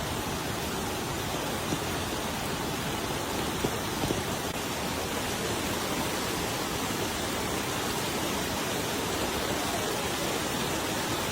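Heavy rain falling, a steady even hiss with a few sharper ticks in the first few seconds.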